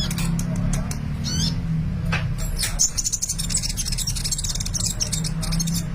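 Sunbird (Indonesian 'kolibri') singing vigorously: sharp, high-pitched chirps and fast trills that become almost continuous in the second half, over a steady low hum.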